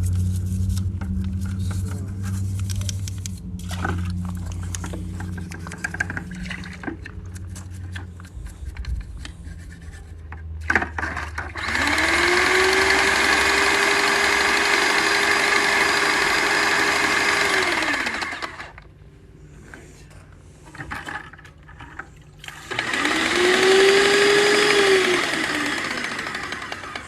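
Airless paint sprayer being flushed with water. There are two bursts of spraying hiss, one of about six seconds and a shorter one of about three seconds. In each, the pump motor whines up in pitch, holds, and winds back down. A low steady hum fills the first several seconds.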